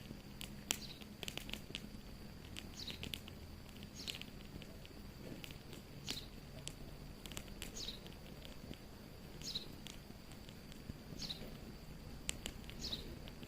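Wood fire crackling with scattered sharp pops, while a bird repeats a short, high, falling chirp about every two seconds.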